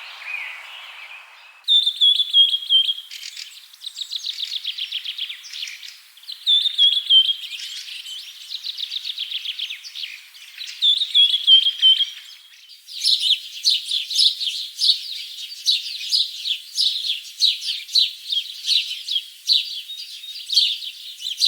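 Small songbirds singing: high-pitched chirps and fast trills, in phrases with short gaps. About 13 s in it changes to a denser, continuous run of rapid chirping.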